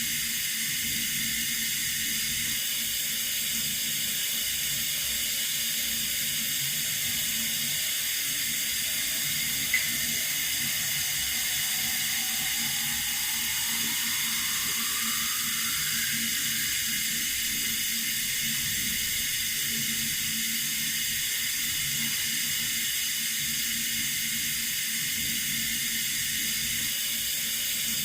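Water running steadily from a tap, an even hiss. A short click comes about ten seconds in, and a faint rising tone follows over the next few seconds.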